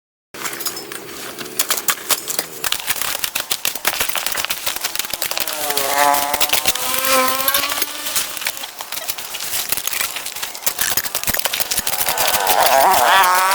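Small two-stroke engine of a power tool such as a chainsaw or brush cutter running and cutting through overgrowth, with dense crackling and snapping throughout. The engine whine revs up about six seconds in and again near the end.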